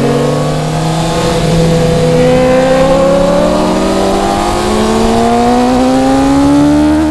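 Racing motorcycle engine heard from an onboard camera, pulling hard under load, its pitch climbing steadily as the bike accelerates out of a corner.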